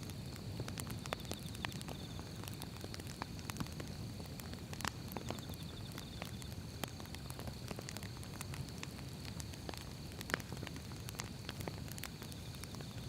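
Firewood burning in an open fire: a steady low rumble of flame, with irregular sharp crackles and pops from the logs.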